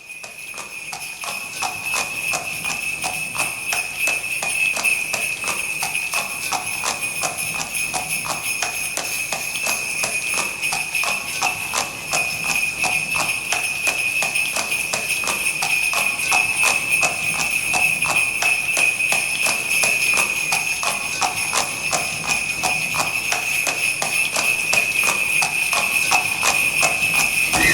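Sleigh bells jingling without pause over the clip-clop of horse hooves trotting, as a horse-drawn sleigh goes along. The sound fades in over the first couple of seconds.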